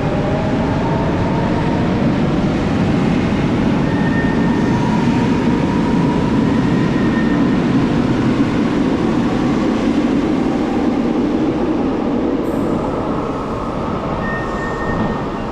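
Double-deck Paris commuter train moving alongside the platform: a loud, steady rumble of wheels and running gear with a faint electric motor whine.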